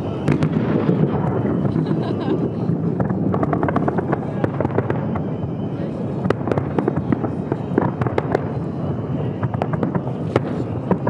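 Aerial fireworks display: a dense, continuous crackle and pop of bursting shells, with sharper reports scattered throughout.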